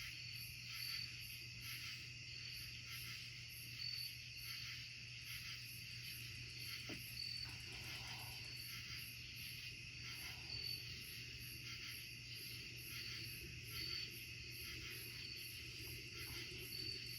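Night insect chorus of crickets and other insects: steady high trilling with an even pulsing rhythm, over a faint low hum.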